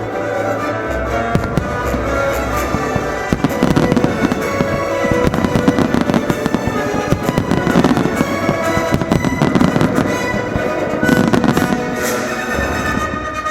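A rapid barrage of starmine fireworks, many bursts and crackles close together, densest from about three seconds in until near the end, over Christmas music.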